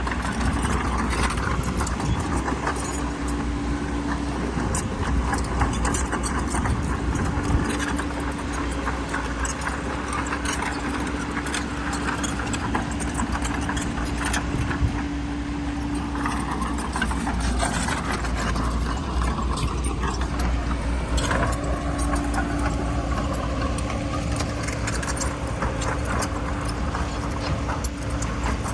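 Crawler bulldozer's diesel engine running steadily with a constant whine, over a continuous clatter of its steel tracks and rattling stone.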